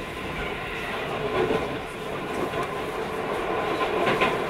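Cabin running noise of a Keio 5000 series commuter train under way: a steady rumble of wheels on rail with a faint steady hum, and a clack from the rails about four seconds in.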